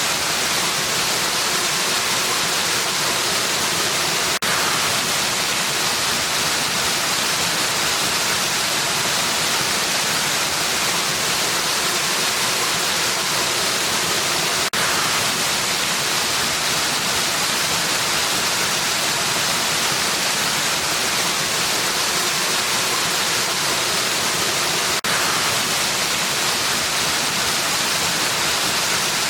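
Waterfall: a steady, dense rush of falling water, mostly a high hiss, with a brief dip in level about every ten seconds.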